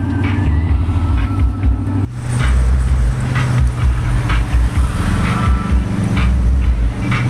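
Motor vehicle on the move, with a loud, steady low rumble of engine and road noise.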